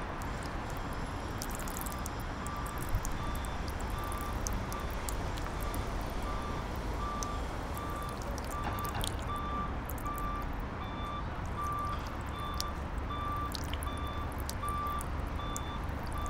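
A vehicle's reversing alarm beeping steadily, starting a few seconds in, over a steady low rumble of traffic.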